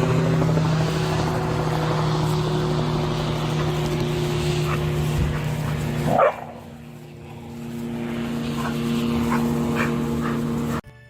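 A steady motor-like drone runs on with a dog yipping briefly now and then. The drone cuts off suddenly near the end.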